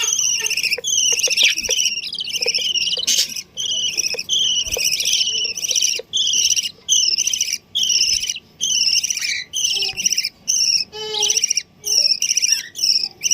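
Small birds chirping rapidly and shrilly in short repeated bursts, about one to two a second, with no let-up: chicks begging as they are fed grain by the parent birds.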